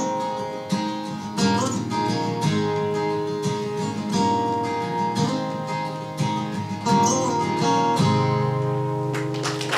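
Acoustic guitar playing a song's instrumental ending, picked and strummed notes, closing on a final chord about eight seconds in that rings out.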